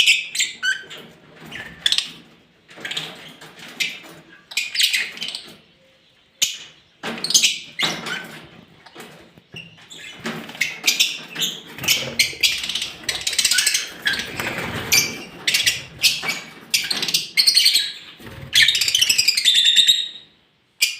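A colony of lovebirds chattering: a rapid, irregular string of shrill chirps and squawks, with one longer drawn-out call near the end.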